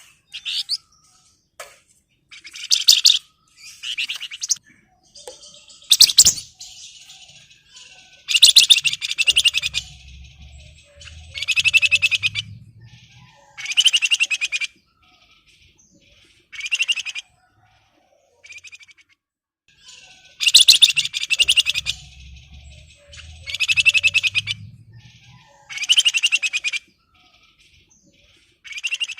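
Wergan Jawa (Javan fulvetta) singing in loud bursts of rapid chattering song, each a second or so long, repeated every couple of seconds.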